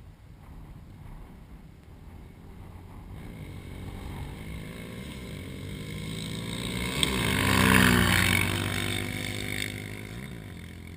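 ATV engine running at high revs, growing louder, passing at its loudest about eight seconds in with a drop in pitch, then fading.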